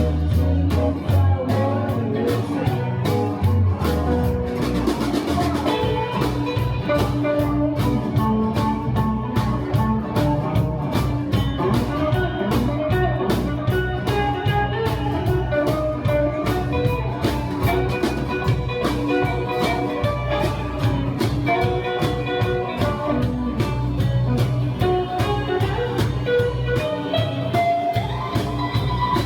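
Live blues band playing an instrumental passage: electric guitar taking a melodic lead over bass and a steady drum-kit beat.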